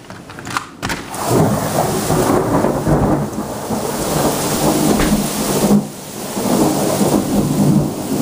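Heavy rain pouring down in a storm, a dense steady downpour that turns suddenly much louder about a second in and dips briefly near the end.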